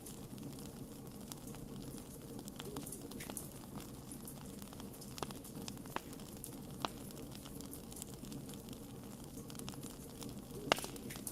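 Wood campfire burning: a steady low rush with scattered sharp pops and crackles, a few of them standing out, the loudest near the end.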